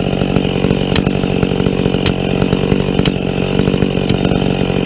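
Two-stroke chainsaw running steadily at high throttle, cutting into a standing tree's trunk: the back cut of a felling.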